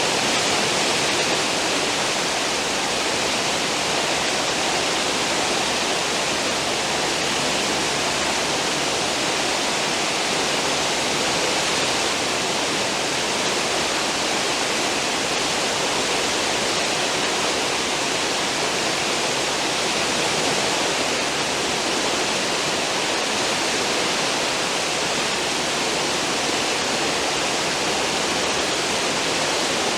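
Churning stern wake of a cruise ship: a steady, even rush of white water.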